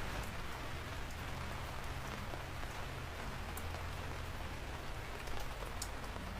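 Steady rain falling on surfaces, a continuous hiss with scattered individual drop ticks and a low background rumble.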